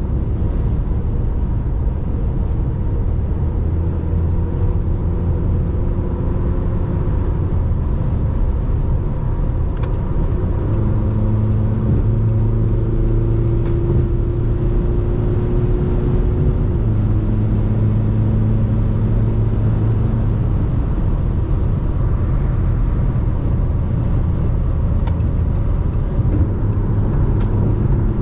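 RAM Rampage Rebel's 2.2 turbo diesel engine running under way with steady road rumble, its engine note shifting in pitch about a third of the way in and again a little past halfway.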